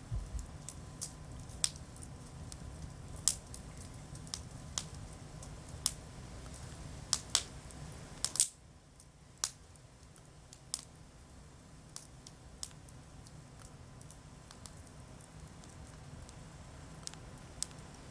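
Wood campfire crackling, with sharp pops at irregular intervals, some close together, over a low rumble that drops away about halfway through.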